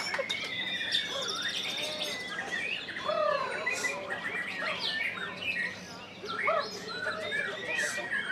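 White-rumped shama singing a fast, varied song of whistled chirps and notes sliding up and down, with a quick rattling trill near the start.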